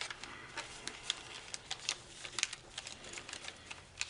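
Light crinkling and clicking of a foil origami sheet being folded and creased by hand, as a string of small, irregular ticks.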